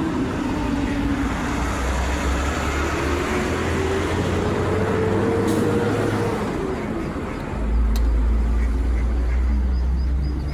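Road traffic: motor vehicles passing, one engine note rising in pitch and then falling away around the middle, with a heavier low rumble setting in about three-quarters of the way through.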